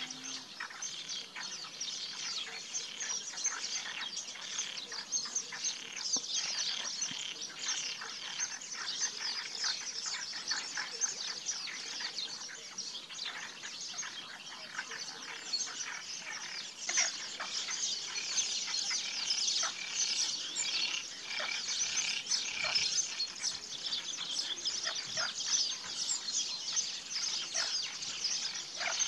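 A dense chorus of many birds chirping and chattering at once, short high calls overlapping without a break.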